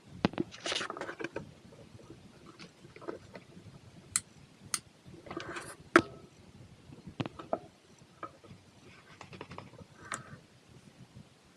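Irregular clicks, knocks and short scraping sounds of small hard objects being handled, with the loudest knock about six seconds in.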